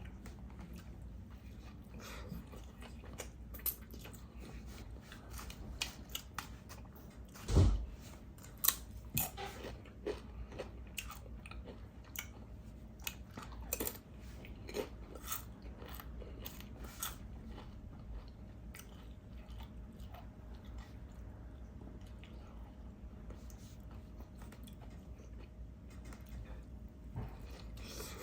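Close-miked eating of a tuna sub and Doritos chips: crunchy bites and chewing in irregular clusters, busiest in the first half, with one loud low thump about seven seconds in.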